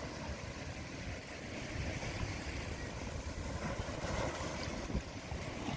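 A boat's engine running steadily, a low rumble under a hiss of wind and water.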